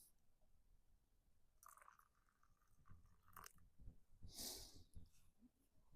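Near silence with a few faint small clicks and rustles, the faint handling sounds of someone at a camp coffee setup.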